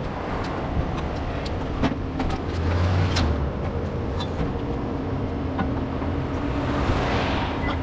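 Motor traffic: a vehicle running with a steady low hum, scattered clicks and knocks, and a car passing close by, its tyre noise swelling about seven seconds in and fading.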